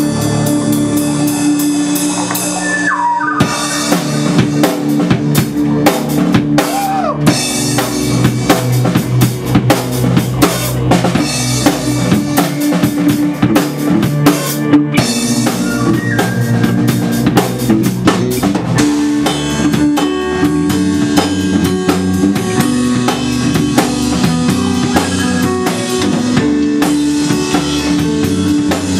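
Instrumental passage of a band's song. A drum kit with bass drum and rimshots comes in a few seconds in over sustained guitar and bass tones.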